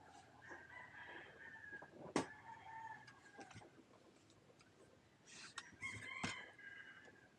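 A rooster crowing faintly, twice, each crow long and drawn out. A sharp click about two seconds in and another near the end come from handling gear close by.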